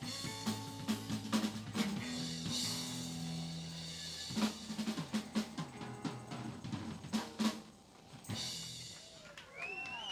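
Live band finishing a song, with the drum kit to the fore: busy drum fills and hits over held bass and guitar notes. The playing drops away about eight seconds in, and a high held tone follows near the end.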